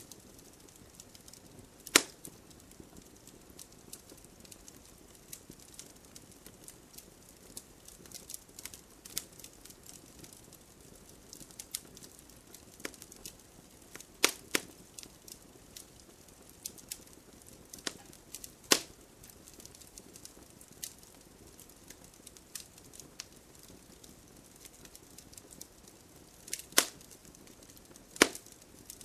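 Wood campfire crackling: a run of small crackles and scattered sharp pops over a faint hiss. The loudest pops come about two seconds in, around the middle, and twice near the end.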